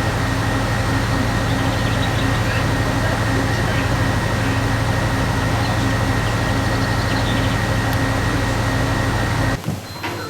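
Steady machine noise, like a fan or blower, with a low hum and a thin high whine, cutting off suddenly near the end.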